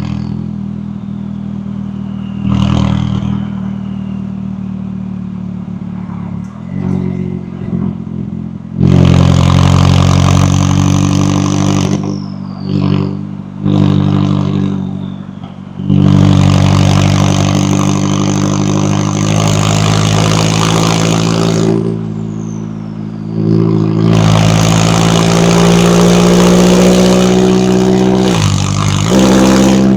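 McLaren 570S twin-turbo V8 engine and exhaust under hard acceleration, pulling three times at full throttle for a few seconds each, with short lifts in between. The first few seconds are lighter running.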